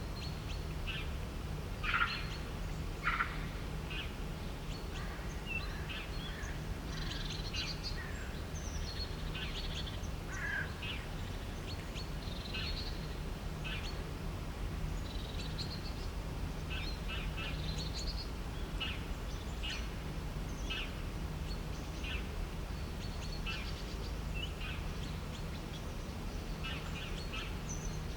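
Several birds chirping and calling in quick, overlapping short notes, with two louder, lower calls about two and three seconds in. A steady low hum runs underneath.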